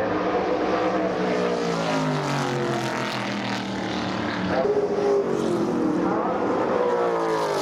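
Historic muscle race cars passing at speed, each engine note falling in pitch as it goes by; another car comes through about halfway.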